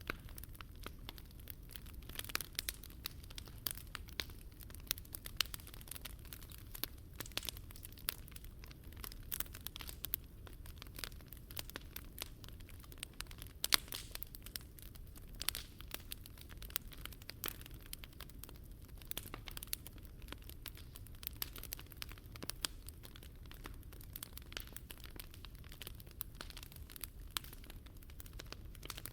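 Wood campfire burning, crackling and popping with many irregular sharp snaps over a low steady rumble.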